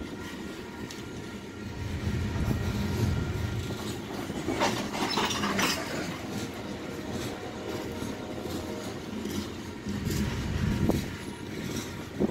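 Coal train's open-top coal cars rolling past on the rails: a steady low rumble with wheel clatter. A brief, harsher burst of higher-pitched wheel noise comes about four and a half seconds in.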